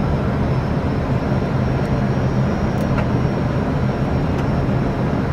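Steady engine and airflow noise of an Airbus A320 on a low-visibility autoland approach, heard from inside the aircraft, with a low hum and a faint thin high tone.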